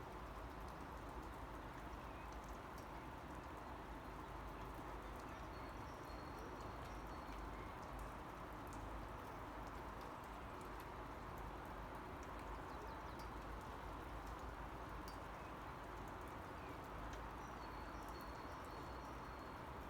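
Steady rain with scattered sharp drips, and a faint high bird call a few times.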